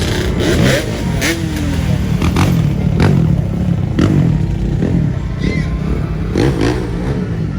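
Loud car engines running and revving, with a heavy low rumble, short rising and falling swells in pitch, and several sharp cracks scattered through.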